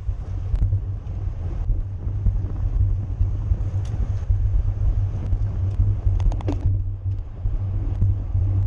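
Wind buffeting the microphone of a camera on a racing bicycle at speed: a steady, loud low rumble. A short run of rapid clicks comes about six and a half seconds in.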